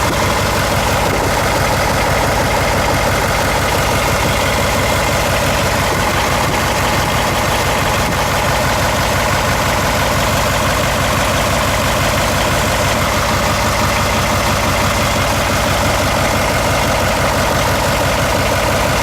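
Caterpillar 3208 V8 diesel engine in a Ford truck, idling steadily with no change in speed.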